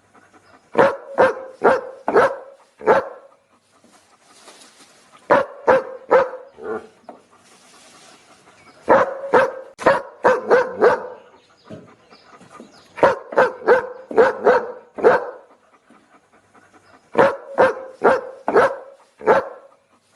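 A dog barking in quick volleys of four or five barks, with short pauses of a second or two between the volleys.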